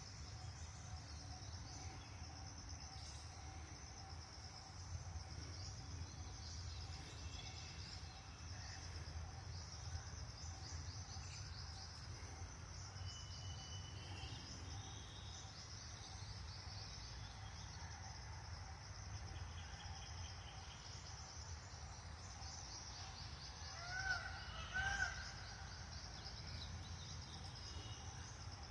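Steady high-pitched insect chorus, crickets buzzing, over a low outdoor rumble, broken near the end by two short, loud bird calls about a second apart.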